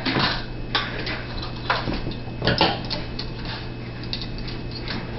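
Dishes and utensils clinking and knocking as they are taken out of a dishwasher and handled: a few sharp knocks in the first three seconds, then lighter ticks.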